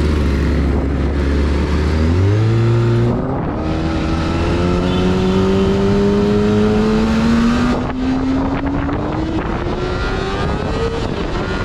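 Kawasaki Ninja sport motorcycle engine running low for about two seconds, then pulling away, its pitch climbing slowly and steadily as the bike gathers speed.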